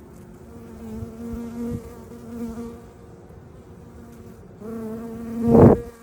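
Honeybees buzzing close to the microphone, a steady-pitched drone that comes in two stretches. Near the end it swells sharply loud as a bee passes right by, then drops away.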